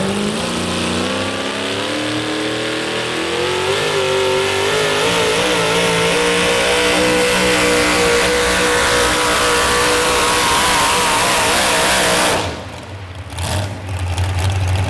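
Modified 4x4 pulling truck's engine at full throttle under the load of the sled, its pitch climbing for several seconds and then holding high and wavering. About twelve seconds in it drops off abruptly as the throttle is let off.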